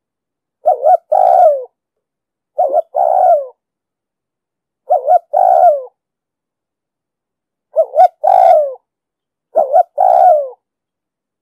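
Spotted dove cooing, its call repeated five times about two seconds apart. Each call is a quick short note followed by a longer coo that falls at its end, with silence between calls.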